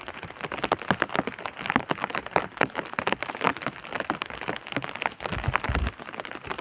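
Rain falling, with many irregular drops pattering and ticking on a hard surface close to the microphone. A brief low rumble comes about five and a half seconds in.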